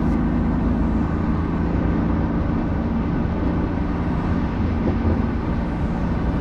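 BMW F82 M4's twin-turbo straight-six running at a steady speed while the car drives, with road and tyre noise. The pitch holds steady throughout, with no revving or shifting.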